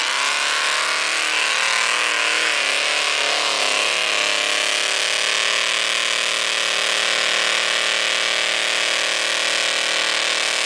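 Mud truck's engine running at high revs under heavy throttle as it churns through the mud pit, dipping in pitch a couple of times early on and then holding high and steady before dropping off at the very end.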